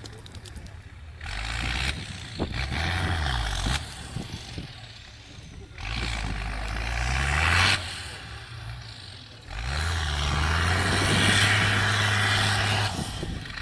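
Off-road trial truck's diesel engine revving hard in three bursts, the pitch rising at the start of each, with quieter running between them.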